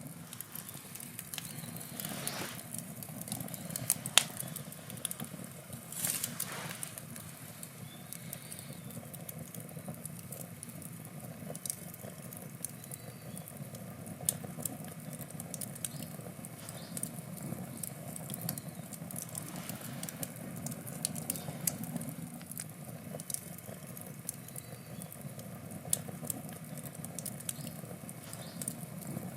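Wood fire burning in a campfire: a steady low rush of flame under frequent sharp crackles and pops from the burning wood, with a louder pop about four seconds in and a brief hiss around six seconds in.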